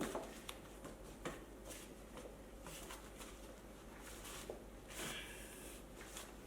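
Faint scattered clicks and short rubbing sounds of a rubber scooter tyre being worked by hand onto a wheel rim, a little louder about five seconds in.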